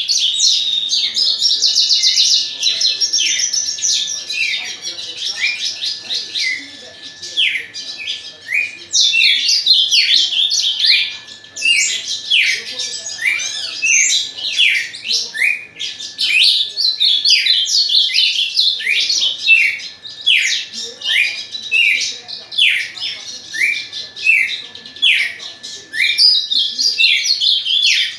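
Songbirds singing a long, fast twittering song of short downward-sweeping notes repeated several times a second, over a faint steady high tone.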